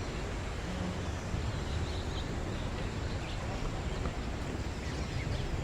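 Outdoor bird-park ambience: a steady low rumble and hiss with a few faint, brief bird chirps scattered through it.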